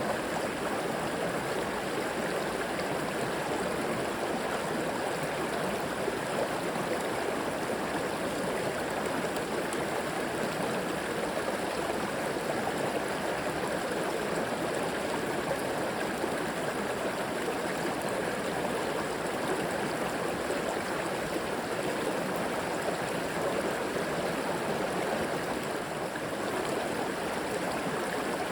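A river flowing steadily, its water rushing and gurgling in an even, unbroken wash.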